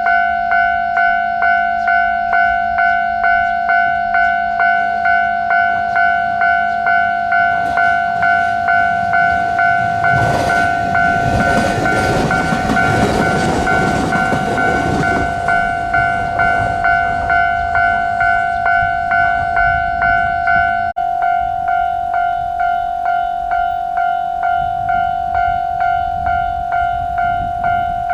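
Japanese railway level-crossing alarm ringing in a steady two-tone clang, about two strokes a second. Partway through, a train passes, its rolling noise swelling and fading over about six seconds. The alarm briefly breaks off about three-quarters of the way through, then carries on.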